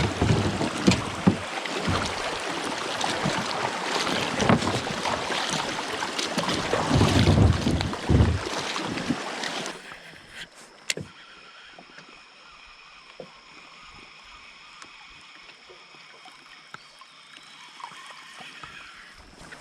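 Water noise and knocks around a small kayak on a river, loud and busy for about ten seconds, then dropping suddenly to a quiet background with a few faint clicks.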